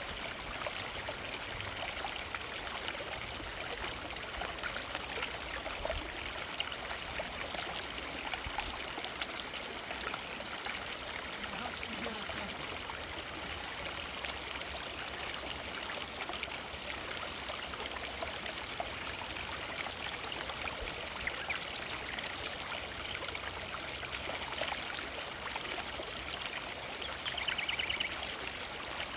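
River water flowing steadily through a forest, an even, continuous rushing and splashing.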